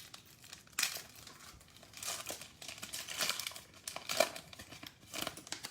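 Foil trading-card pack wrapper being torn open and crinkled by hand, in irregular rustling bursts with a few sharper crackles.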